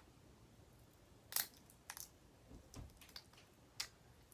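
Boiled crawfish shells cracking as they are broken open and peeled by hand: a few faint, sharp snaps about a second apart, the first the loudest.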